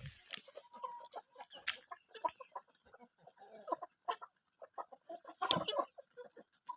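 Chickens clucking in many short, separate calls, with one louder, harsher burst about five and a half seconds in.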